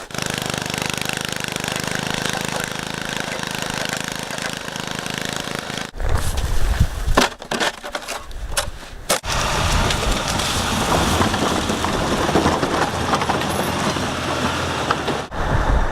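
Engines running, in a few cut-together shots: a steady engine drone for about six seconds, then louder, uneven noise with several sharp knocks, then a steady noisy engine run.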